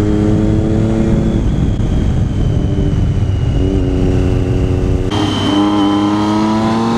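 Motorcycle engine under way, its note climbing gradually and shifting in steps through gear changes, over steady wind rush.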